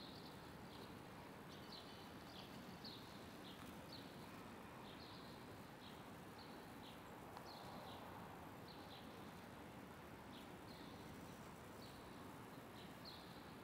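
Faint outdoor ambience with a small bird repeatedly giving short, high, downward chirps, about one or two a second.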